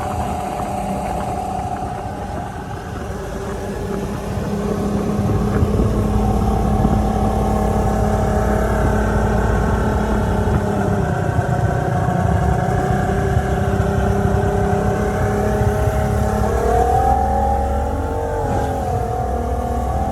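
A drag boat's freshly built engine running at speed while it is still being broken in, over a low rushing noise. The engine note gets louder about five seconds in and wavers up and down near the end as the boat rides over waves.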